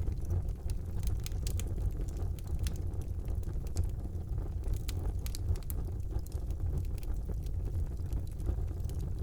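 Wood fire burning in a fireplace: a steady low rumble of flames with frequent small, sharp crackles and pops throughout.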